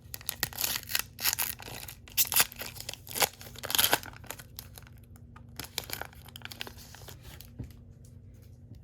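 Baseball card pack wrapper being torn open and crinkled, with sharp crackling tears loudest in the first four seconds, then quieter rustling as the cards are handled.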